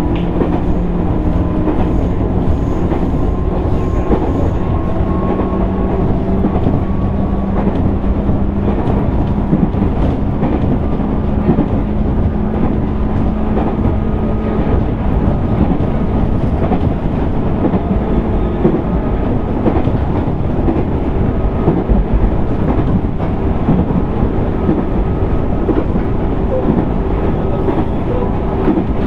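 Onboard running sound of a JR East 205 series 600 electric train, heard from inside motor car MoHa 204-604: a steady rumble of wheels on rail with a thin motor whine that rises slowly in pitch over the first dozen seconds, then holds steady.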